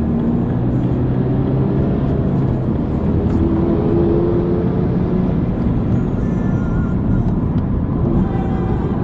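Car engine running hard under way on a race track, heard from on board, with steady road and wind noise. The engine pitch rises slightly a few seconds in, then settles.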